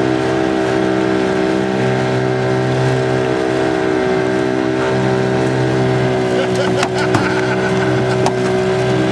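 Mitsubishi Magna sedan's engine running at steady, held revs as the car wades through deep water, with a few sharp knocks near the end.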